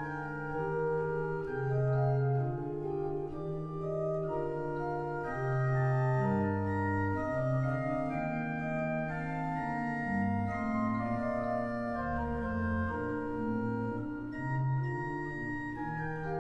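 Pipe organ playing a polyphonic piece: sustained chords over a bass line that moves from note to note.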